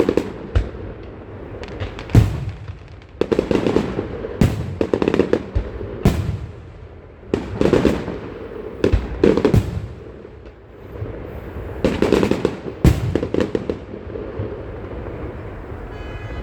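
A fireworks display going off, with a dozen or so sharp bangs coming every second or two. Many of the bangs are followed by a crackling tail.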